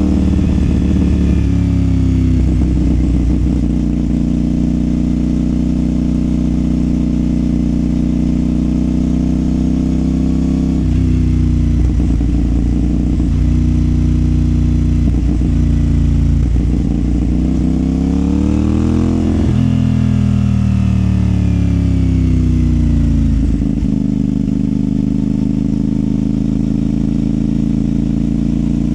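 CFMOTO 450SR's 449 cc parallel-twin engine running under way, its note holding and then shifting several times between gears. About two-thirds in it revs up sharply, breaks off and falls away for a few seconds, then settles to a steady lower note.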